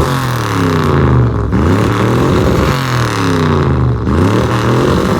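1972 Ford Bronco's engine being revved repeatedly in a rev contest, its pitch climbing and dropping back with each blip of the throttle.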